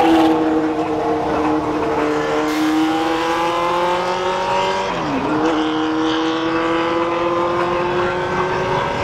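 Car engine held at high revs. Its pitch sags slowly, drops sharply and climbs straight back about five seconds in, then rises gradually again.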